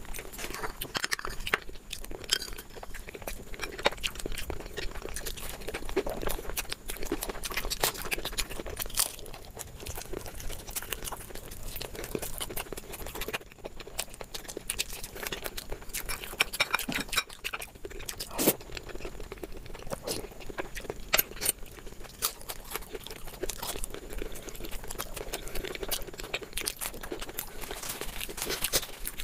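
A person chewing and crunching crisp fried samosa pastry with chickpea curry, close to the microphone: dense, irregular crunches and wet chewing throughout.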